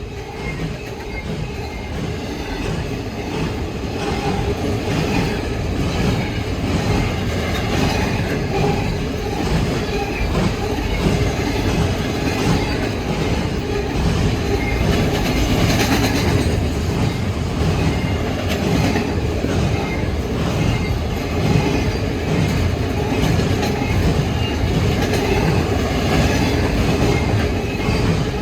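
Train rolling past, its wheels clattering rhythmically over the rails. It grows louder over the first few seconds, then holds steady.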